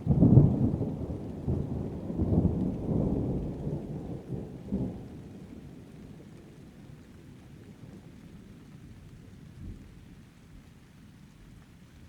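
Thunder breaks out sharply and rolls on in several low surges for about five seconds, then dies away, leaving steady rain.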